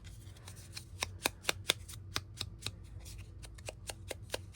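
Rapid light tapping and dabbing on paper, about four taps a second, loudest and quickest in the first two seconds. It is a tool dabbing ink onto a paper piece to distress it.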